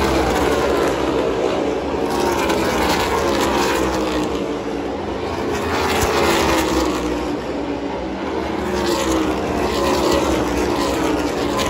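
NASCAR stock cars racing past as a pack, their V8 engines running flat out, with the pitch dropping again and again as cars go by in waves.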